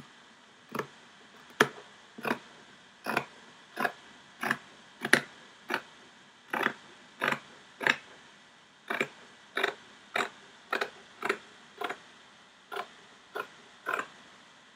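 Sharp fabric scissors cutting through fabric, a steady run of crisp snips about one every two-thirds of a second, with two short pauses.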